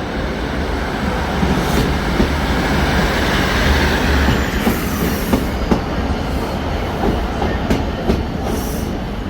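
A train moving through a station, with a steady rail rumble and wheels clattering over rail joints. There are a few brief high-pitched wheel squeals.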